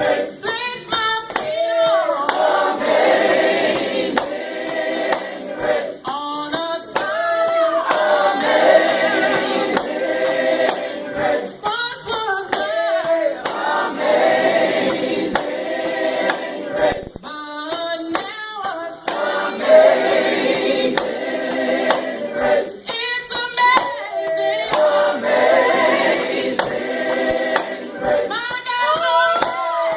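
Gospel choir singing with a steady percussive beat, a brighter lead voice rising out of the ensemble about every five to six seconds.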